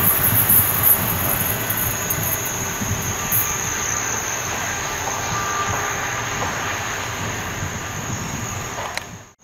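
A train rolling past, a steady rumble of wheels on rails that slowly fades, then cuts off abruptly just before the end.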